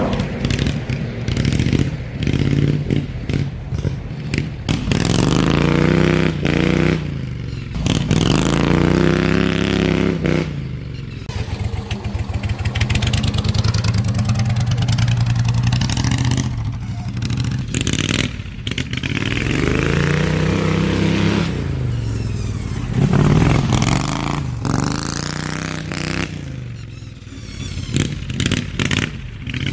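Slightly modified Briggs & Stratton V-twin engine of a hot-rodded Craftsman LT2000 riding mower, revving up and falling back again and again as it is driven hard around laps, with several brief off-throttle dips.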